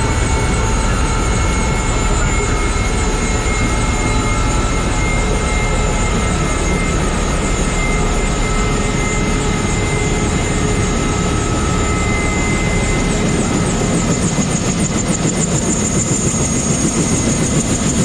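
Bell UH-1B Huey helicopter running: a steady turbine whine over loud rotor and engine noise, growing slightly uneven near the end.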